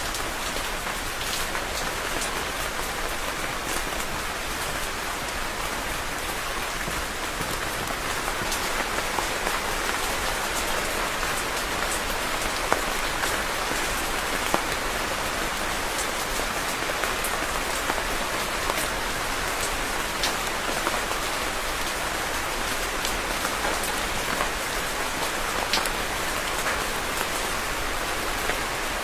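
Steady heavy rain falling on a surface, a dense hiss with many individual drops ticking through it.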